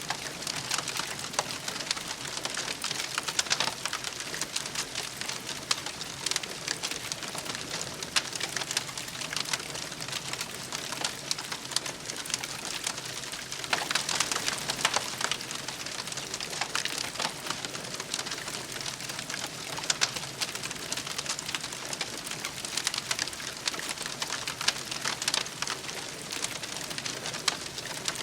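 Wood campfire crackling steadily, a dense stream of small crackles with louder pops now and then.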